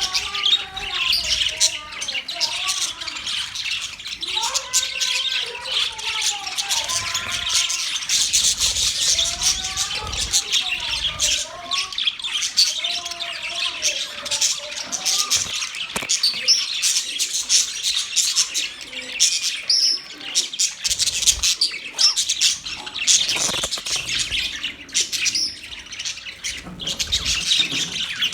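A flock of budgerigars chattering and chirping continuously, many high chirps overlapping, with lower warbling calls mixed in during the first half.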